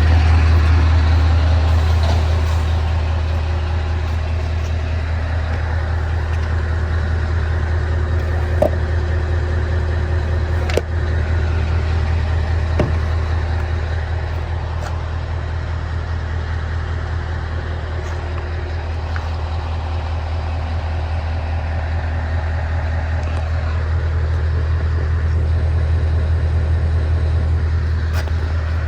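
Scania R 500's V8 diesel engine idling steadily, a deep even hum, with a few light clicks in the middle.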